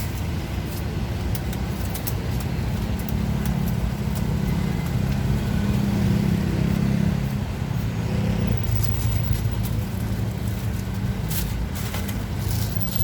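A motor vehicle's engine running close by, a steady low hum whose pitch drops about eight seconds in, with scattered sharp clicks over it.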